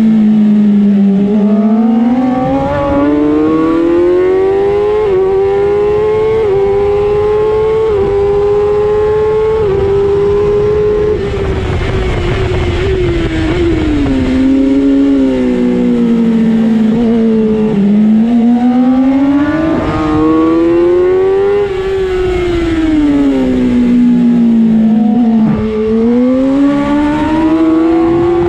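Racing motorcycle engine at speed, heard from onboard: its pitch climbs slowly over the first ten seconds, drops back, then rises and falls twice more as the rider opens and closes the throttle, under steady wind rush.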